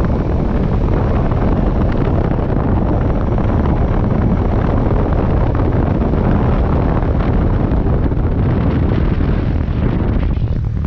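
Wind rushing over the microphone of a motorcycle riding at speed, a loud steady noise with engine and road noise underneath.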